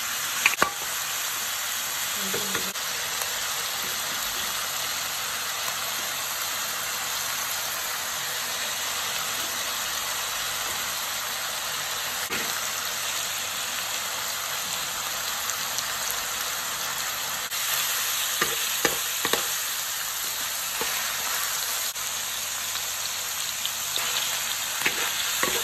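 Meat and sliced ginger sizzling steadily in a hot wok as they are stir-fried. A metal spatula scrapes and knocks against the pan now and then, with a few sharper clicks near the start, about eighteen seconds in, and near the end.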